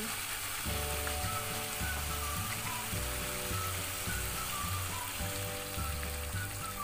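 Chili spice paste sizzling as it fries in a wok, under background music with a soft melody and steady bass chords.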